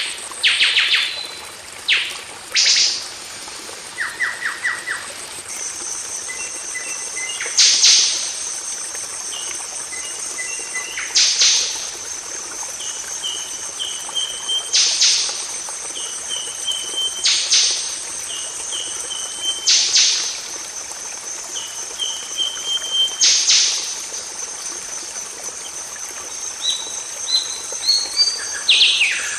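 Golden oriole calling: loud, harsh calls repeat every three to four seconds, with short runs of quick notes between them. A thin, steady high tone runs underneath from about six seconds in.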